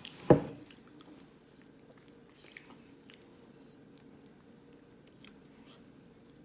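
A person chewing food, with small wet mouth clicks scattered throughout and one loud low thump just after the start.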